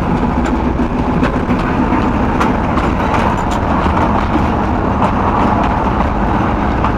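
TU4 narrow-gauge diesel locomotive running steadily under way, a continuous low engine drone with scattered sharp clicks and rattles.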